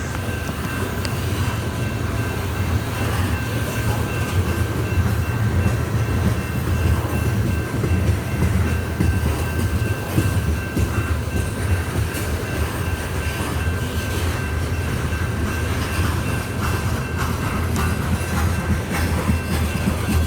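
Loaded coal train's hopper cars rolling past at close range: a steady low rumble of steel wheels on the rails, with a thin high tone held steady above it.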